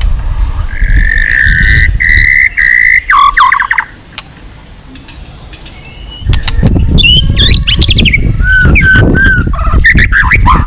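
White-rumped shama singing: a held whistled note, then quick runs of varied notes; it goes quiet for a couple of seconds mid-way and resumes with slurred whistles and rapid notes. A heavy low rumble runs under the song, except during the quiet stretch.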